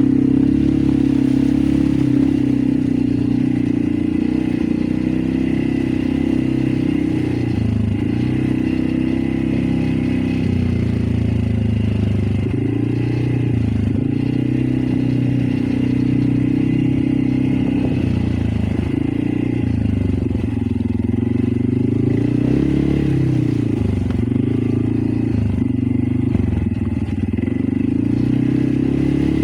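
Loncin XWolf 550L ATV engine running under load, its note rising and falling again and again as the throttle is worked.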